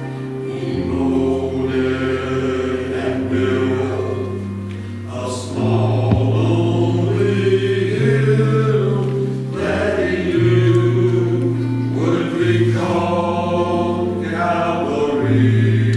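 Adult church choir singing with instrumental accompaniment that holds long, steady low notes changing every second or two.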